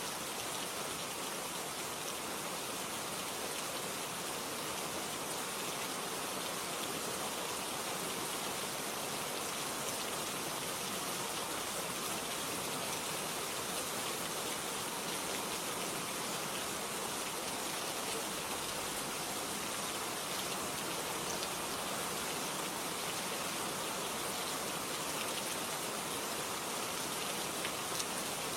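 Steady rain ambience: an even hiss of rain with faint drops pattering on a surface.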